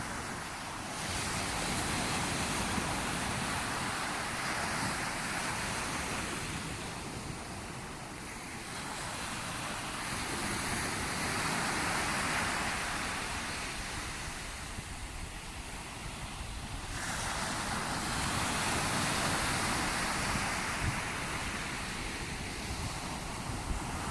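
Sea waves breaking, the surf noise swelling and fading three times, about every seven or eight seconds.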